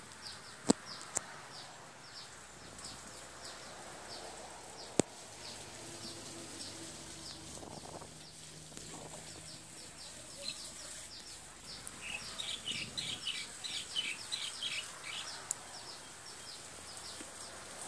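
Birds chirping: a steady string of short high chirps, about three a second, with a burst of livelier chirping from about twelve to fifteen seconds in. Two sharp clicks stand out, one near the start and one about five seconds in.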